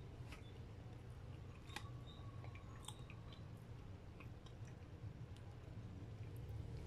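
Faint chewing of soft chocolate cake, with a few small sharp clicks, over a steady low hum.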